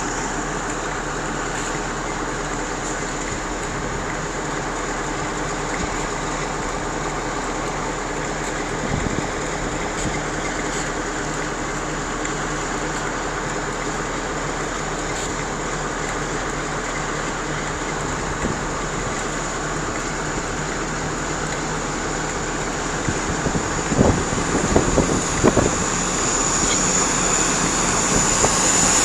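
Diesel train's engines running steadily as a CrossCountry service pulls out of the station. A few sharp knocks come about three-quarters of the way through, and the noise grows louder at the very end.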